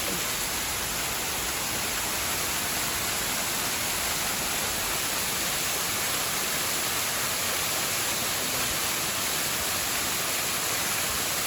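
Waterfall rushing, a steady unbroken hiss of falling water with no change in level.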